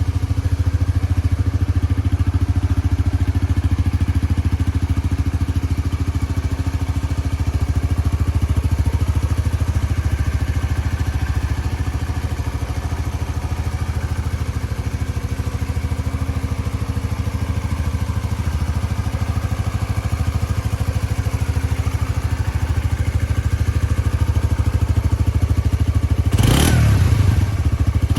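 A 2018 Suzuki GSX-S125's 124 cc single-cylinder four-stroke engine idling steadily, then revved once briefly near the end, its pitch rising and falling back.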